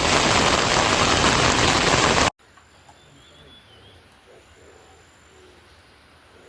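Loud steady rush of water, heavy rain or running water, that cuts off abruptly a little over two seconds in. It gives way to quiet outdoor ambience with a faint bird chirp.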